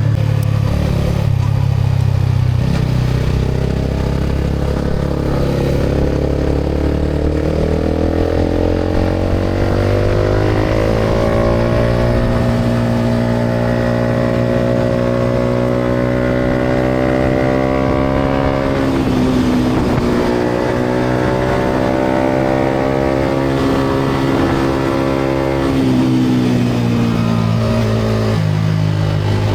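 Yamaha MT-125's 125 cc single-cylinder four-stroke engine running through an aftermarket GPR exhaust while the bike is ridden. Its pitch climbs steadily through the first dozen seconds and then holds. It dips briefly around the middle, holds again, and falls away near the end.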